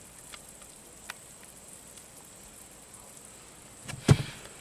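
Syrup heating in a microwave, with faint scattered crackles and pops. About four seconds in comes a single sharp knock, the loudest sound.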